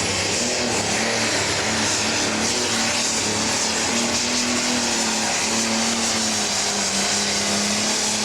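John Deere Pro Stock pulling tractor's turbocharged diesel engine running hard at high revs during a pull, its pitch holding nearly steady with a slight waver under a loud hiss of exhaust and turbo noise.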